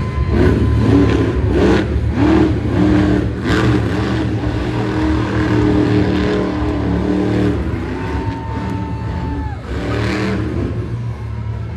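Monster truck engine revving up and down repeatedly over a deep, steady rumble.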